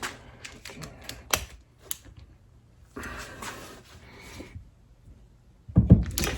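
Workshop clatter of hand tools and metal fork parts being handled on a bench during fork reassembly: a few sharp clicks, a scraping stretch in the middle, then heavier knocks near the end.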